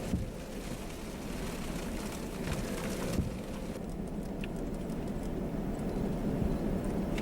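Steady low rumble of a car driving slowly, heard from inside the cabin, with a few faint knocks.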